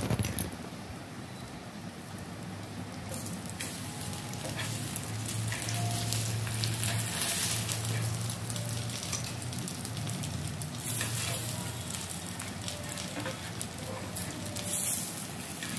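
Stuffed rotis frying in oil on a flat iron tawa: a steady sizzle, with now and then a click of metal tongs or a spatula against the pan.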